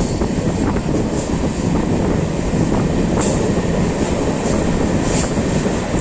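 Passenger train running on the rails: a steady rumble of the coach and wheels, with a few brief high squeaks or clicks from the wheels every second or so.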